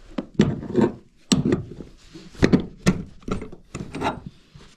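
Hand work on wood: a series of irregular scraping and knocking strokes.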